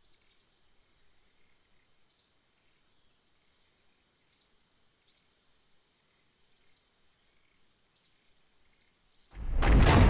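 A small wild bird chirping: about eight short, high chirps at irregular intervals over faint steady hiss. Near the end, loud music with a booming drum cuts in.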